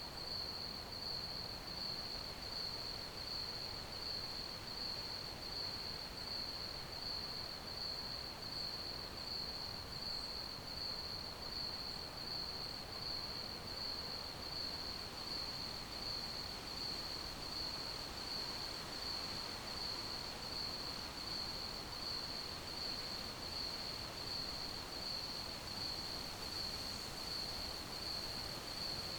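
Crickets chirping in a steady, evenly pulsing high trill that never lets up, over a faint background hiss.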